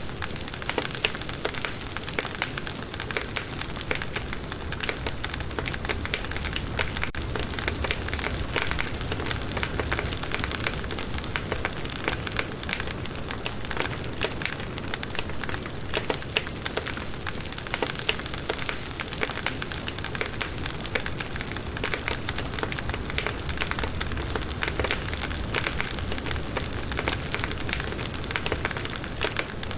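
Firewood burning in a campfire, crackling steadily with many small pops over a low rumble of the flames.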